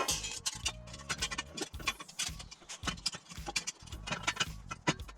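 Irregular metal clicks and clinks as a clamp is fitted around the exhaust pipe joint.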